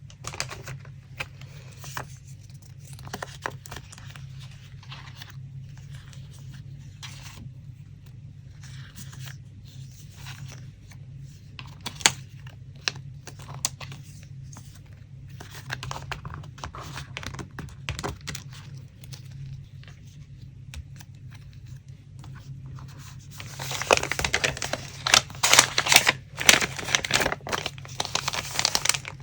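Paper being handled for a collage: scattered light rustles and taps, then a louder, denser stretch of paper crinkling and tearing about five seconds before the end, over a low steady hum.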